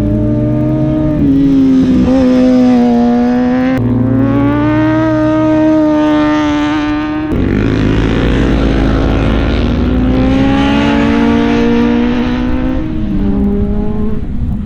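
Superbike engine running hard at high revs, its pitch climbing and falling with the throttle and breaking sharply about 4 and 7 seconds in, as at gear changes.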